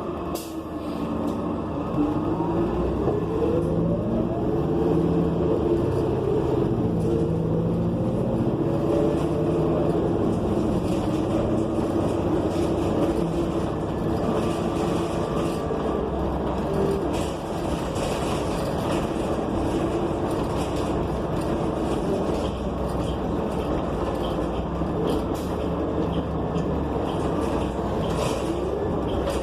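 Interior sound of a New Flyer XN40 transit bus under way, its Cummins Westport ISL G natural-gas engine and Allison B400R transmission whining and rising and falling in pitch as the bus speeds up and slows, over steady road noise.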